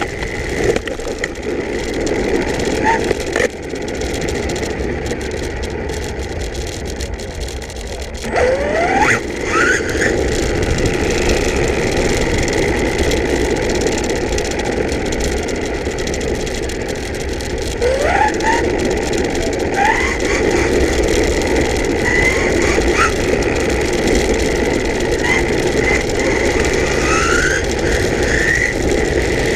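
Electric RC pan car running laps: the motor whines and sweeps up in pitch each time it accelerates, several times, over a steady rush of running noise, with short high squeals in the second half.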